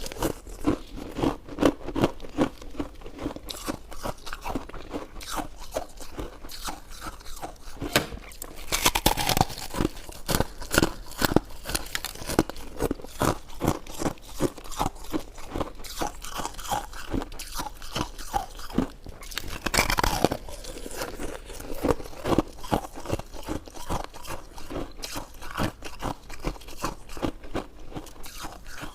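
Close-miked chewing and biting of soft, chewy jelly-bun and mochi sweets: a dense run of rapid, wet mouth clicks and squelches.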